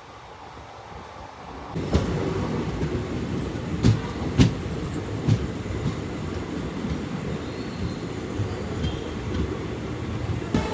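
Passenger express train running along the track: a dense rumble that comes in suddenly about two seconds in, with sharp clacks of the wheels over rail joints, a few louder ones around four to five seconds in.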